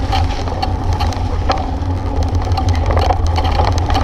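Bicycle ride heard from the bike: a steady low rumble of wind on the microphone, with frequent sharp clicks and rattles from the bike jolting over a rough road.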